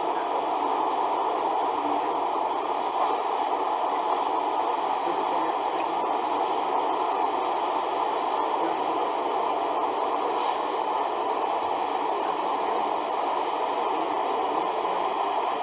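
A steady, even rushing noise with no voices, strongest in the middle range.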